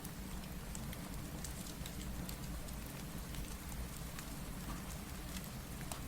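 Steady rain mixed with the scattered sharp pops and crackles of a fireplace, over a constant low rumble.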